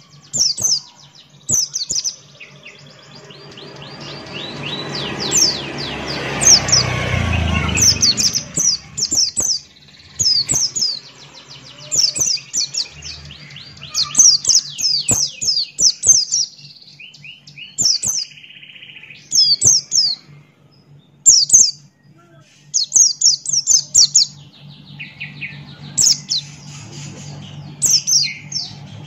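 Buxtoni-type white-eye (pleci) singing hard, with quick bursts of high, thin, sweeping chirps repeated all through. A broad whooshing noise swells up a few seconds in and fades away again, over a steady low hum.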